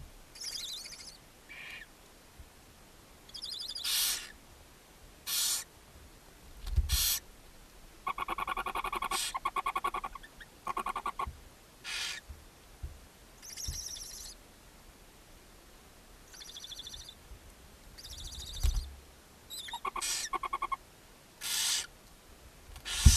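Barn owl nestlings in the nest box giving repeated short, raspy hissing calls, broken by spells of rapid chittering. These are the begging calls of owlets being fed. Two dull thumps from movement in the box are heard, one about a third of the way in and one near the end.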